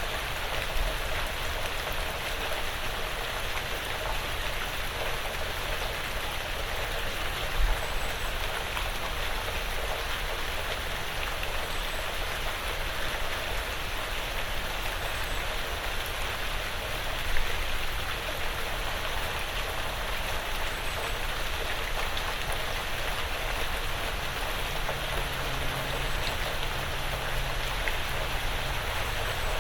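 Steady quiet rain falling on a porch roof and the surrounding woods, an even hiss of drops with two brief louder drips, one about a quarter of the way in and one a little past halfway.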